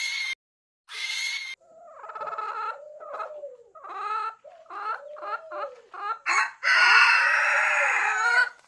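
Chickens clucking in a run of short calls, then one long loud crow lasting almost two seconds near the end. It is preceded by two short hissing bursts in the first second and a half.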